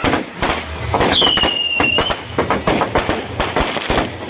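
Firecrackers going off in a rapid, irregular string of sharp cracks and pops. About a second in, a shrill whistle starts, dips quickly in pitch and then holds steady for about a second, as from a whistling firework.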